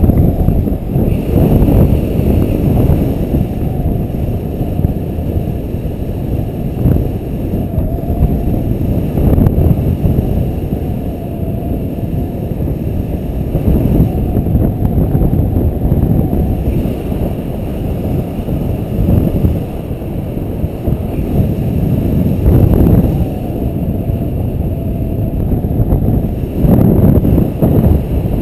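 Wind buffeting the microphone in gusts during engine-off paramotor gliding flight: a loud rushing that swells and eases every few seconds, with no engine tone.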